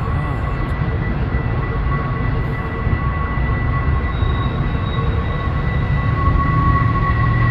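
Train running by: a steady low rumble of wheels on rail with steady high ringing tones over it. A deeper hum grows louder near the end.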